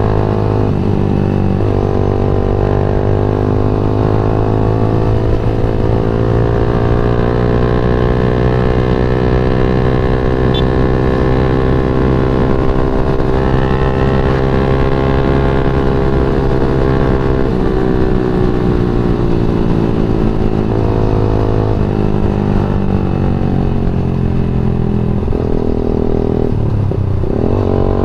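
Yamaha MX King 150's single-cylinder four-stroke engine running under way, its revs climbing slowly and easing back over several seconds, then dipping and picking up again a few times near the end.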